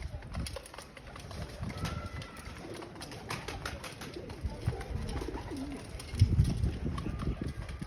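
Domestic pigeons cooing softly over low rumbling background noise, with a louder low burst about six seconds in.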